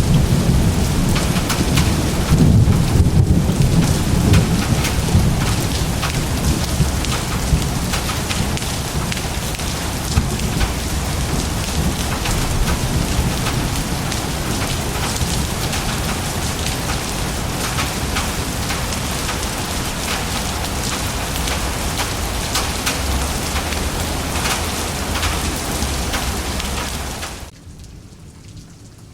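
Thunderstorm: heavy rain falling steadily with a low rumble of thunder, strongest in the first few seconds. Near the end the sound cuts abruptly to quieter, lighter rain.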